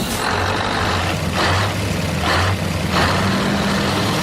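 Truck engine running with a steady low hum, with three short hissing bursts over it about a second and a half, two and a quarter, and three seconds in.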